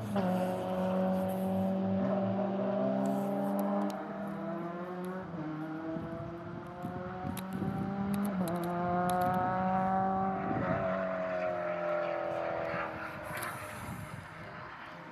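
Car engines at speed on the circuit, revving up and shifting up through the gears several times, each climb in pitch broken by a sudden drop at the gear change. The sound fades away over the last few seconds.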